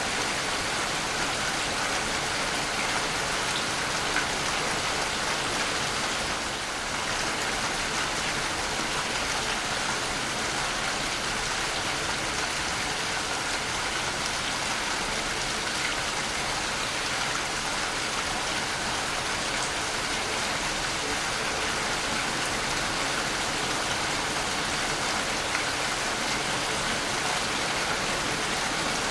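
Waterfall: a steady, continuous rush of falling water with a bright hiss.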